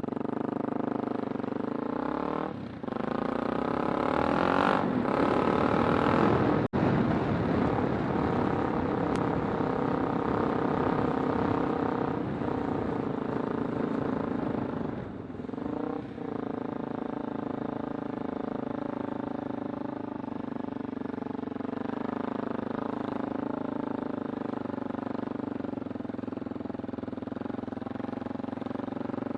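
Kawasaki Super Sherpa's 250 cc single-cylinder four-stroke engine running under way. It pulls harder and louder for a few seconds early on, dips briefly twice, and then holds a steady cruising note.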